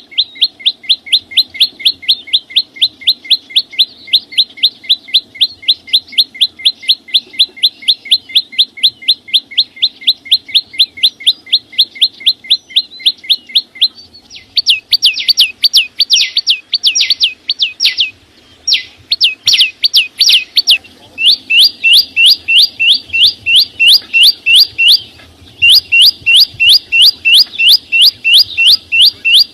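Chim sâu xanh, a small songbird, calling with quick rising chirps, about four a second, in a long unbroken run. About halfway through the notes grow louder and slightly higher and come in runs with brief pauses.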